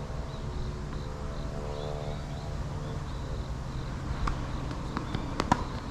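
Wind rumbling on the microphone over a steady low hum that fades out about halfway through. In the last two seconds come a few sharp knocks of tennis balls being struck, the loudest just before the end.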